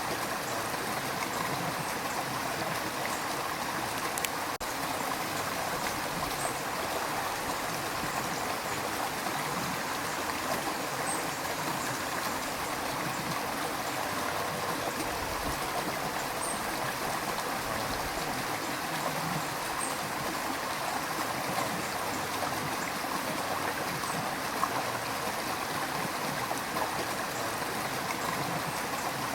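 River water rushing and gurgling over rocks in a steady, even wash.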